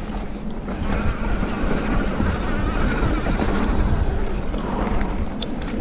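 Wind buffeting the microphone over the rumble of an electric mountain bike's tyres rolling fast on a dirt trail, with light rattles and clicks from the bike.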